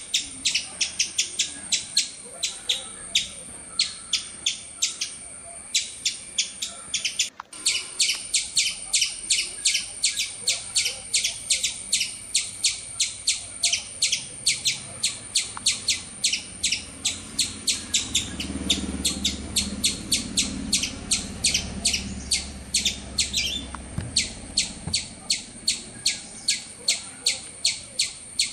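Small bird chirping over and over in a fast, very even rhythm of about three to four short high chirps a second. A low murmur joins underneath for several seconds past the middle.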